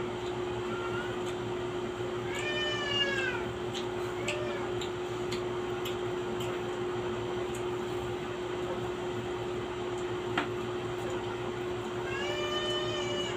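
A cat meowing: a long meow that rises and falls about two and a half seconds in and another near the end, with shorter, fainter ones between, over a steady hum.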